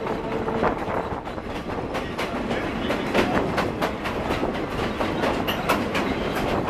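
Passenger train running along the track, heard from an open-sided car: a steady rumble of wheels on rails with frequent clicks and clacks.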